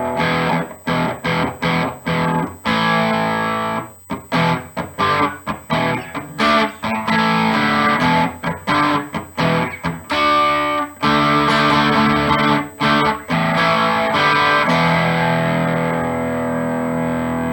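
Electric guitar with a Seymour Duncan Little 59 mini humbucker in the bridge position, played through a Mesa Boogie amp's dirty channel with the guitar's volume rolled down to about 3. It plays many short, choppy chords, then a held chord rings out near the end.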